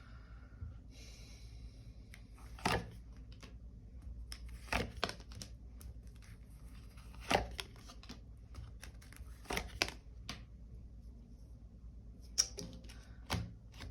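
Tarot cards being handled on a table: a brief papery rustle about a second in, then a scattering of short, sharp taps and slaps as cards are drawn, turned and laid down, spaced irregularly a second or two apart.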